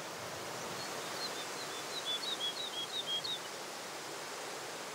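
A small bird singing a quick series of short, slightly falling chirps from about a second in until past three seconds, over a steady outdoor background hiss.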